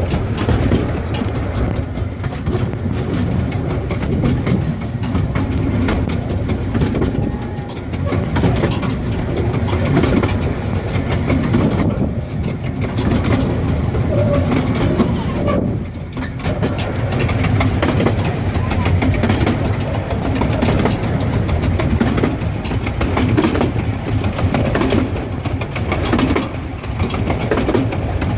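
Small-gauge railway train running along the track, heard from on board: a steady rumble of wheels on rail with frequent irregular clicks and rattles.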